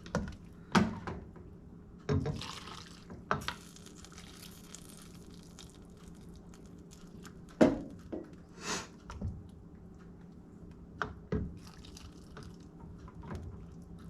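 Liquid in canning jars of Salisbury steak being stirred and debubbled, with scattered clinks and knocks of a utensil against the jars and a soft pouring or sloshing hiss early on.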